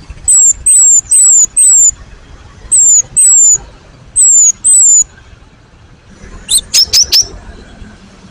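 Cinereous tit (gelatik batu) singing: loud, high thin whistled notes, each sliding slightly down in pitch, in phrases of four, then two and two, followed near the end by a quick run of four shorter notes.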